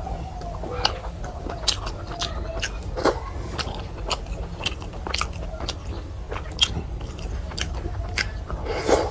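Close-up chewing and mouth sounds of a person eating rice and curries, with many short irregular wet clicks and smacks.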